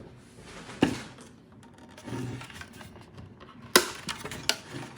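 Handling noises: a few sharp clacks and knocks, about a second in and twice near the end, with faint rubbing and scraping between.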